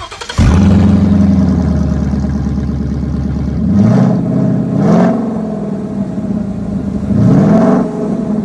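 2017 Ford Mustang GT's 5.0 L V8 running with no exhaust, open straight from the manifolds. It fires up about half a second in and holds a fast idle. A few seconds later it is revved three times, a short blip about four seconds in, another a second later, and a longer rev near the end, settling back to idle between them.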